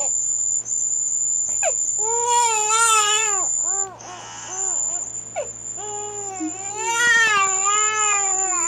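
Wailing, crying voice in several long, wavering cries. A steady high-pitched whine runs underneath, broken briefly about four seconds in.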